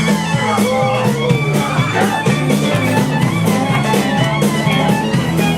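Country band playing an instrumental break: a lead guitar over bass and a steady beat.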